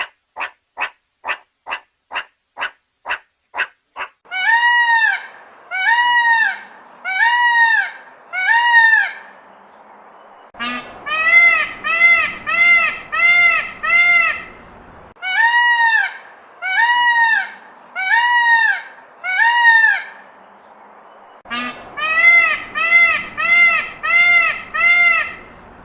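A large bird calling: a run of rapid sharp clicks that speeds up over the first few seconds, then loud, ringing honking calls, each rising and falling in pitch, about one a second, in runs of four to seven with short pauses between.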